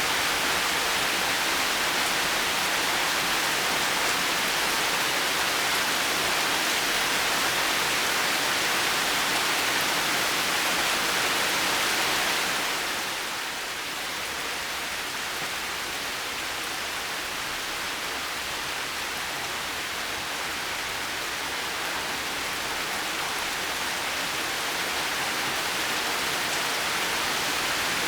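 Heavy rain falling in a steady hiss. It grows a little quieter about halfway through, then slowly builds back near the end.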